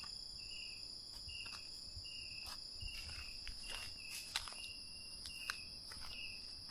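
Night insects calling steadily: a continuous high trill with a cricket-like chirp repeating about twice a second. A few faint clicks and rustles sound in among them, two slightly sharper ones about four and five and a half seconds in.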